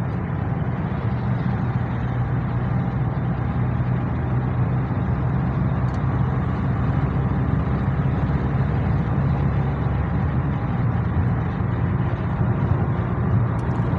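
Steady drone of a car driving at an even speed, heard from inside the cabin: low engine hum and tyre noise.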